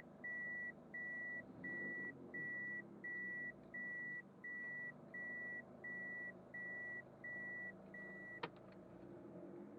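Reverse-gear warning beeps from a car, a steady high beep about once every 0.7 s, over the turbocharged Toyota Corolla Altis engine idling. The beeps stop about eight seconds in and are followed by a sharp click.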